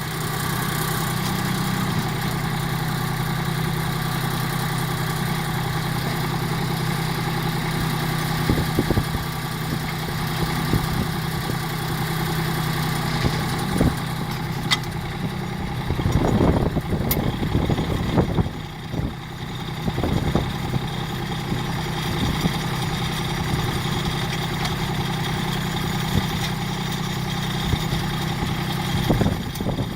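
Compact tractor's diesel engine idling steadily, with a few short knocks about halfway through.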